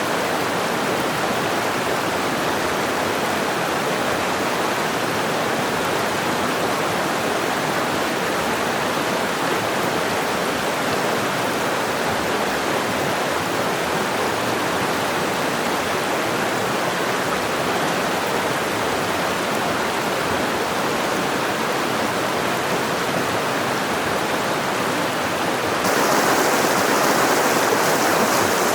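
Mountain river water rushing in a steady, even wash. Near the end it abruptly becomes louder and brighter.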